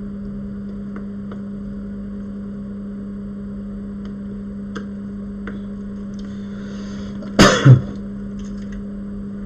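Steady electrical hum of bench equipment, with a few light clicks of small parts being handled and one short loud burst about seven and a half seconds in.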